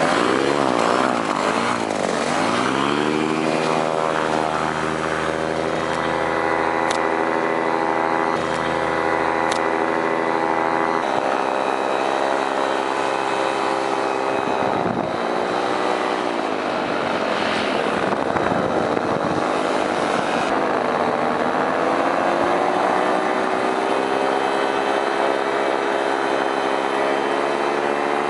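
Paramotor engine and propeller running under power. The pitch wavers up and down for the first few seconds, then holds steady, with two brief dips in pitch later on.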